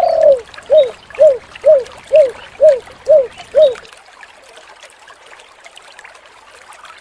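Spotted dove cooing: the end of a phrase with one drawn-out coo followed by seven short coos about half a second apart, the 'kuk 7' call prized by dove keepers.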